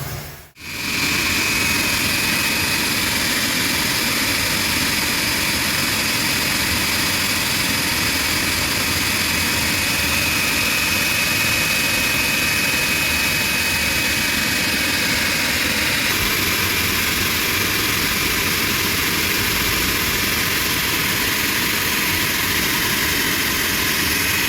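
Pressure washer spraying water at high pressure, a steady loud hiss with a thin high whine that fades out about halfway through.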